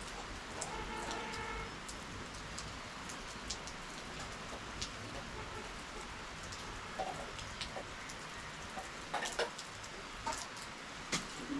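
Steady rainfall patter with scattered louder drips, several of them clustered near the end. A short animal call sounds about a second in.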